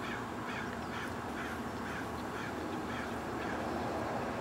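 A bird calling in a quick series of repeated calls, about two to three a second, fading out about three and a half seconds in.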